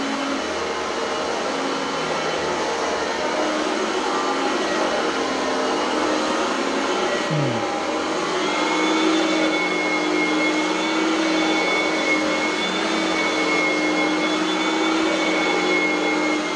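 Oreck Elevate Conquer upright vacuum cleaner running steadily under way. About halfway through, its motor note steps up to a higher whine and holds there.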